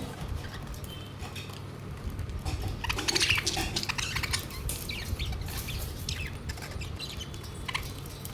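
Pet budgerigars chirping in many quick, short calls, busiest from about three to five seconds in, over a steady low hum.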